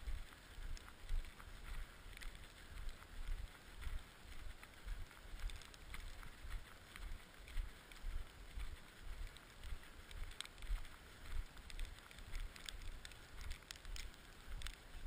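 Wind buffeting the microphone in uneven gusts, over a steady hiss with scattered light ticks.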